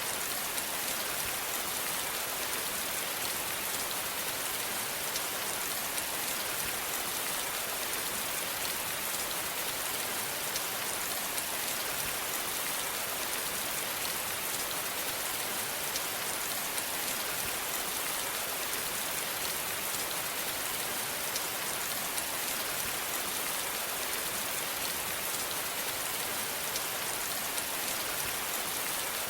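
Steady rain falling, an even hiss with fine scattered drop ticks and no change in intensity.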